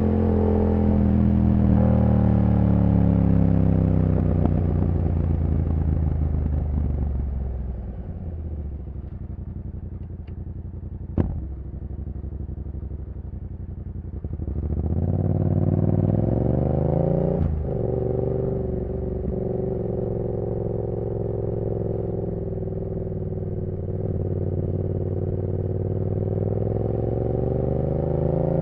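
2015 Yamaha MT-07's CP2 parallel-twin engine through a full race exhaust, its revs falling as the bike slows, then running low and steady for several seconds with one sharp click about 11 seconds in. It then pulls away with rising revs, the note breaking briefly at a gear change about 17 seconds in, and settles into steady cruising.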